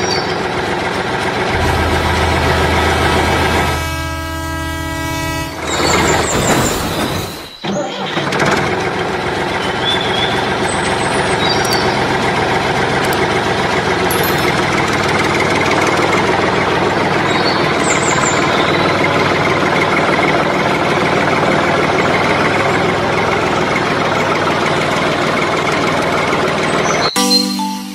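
Large vehicle engine running steadily, with a steady horn-like tone for about a second and a half near the start, and birds chirping now and then over it.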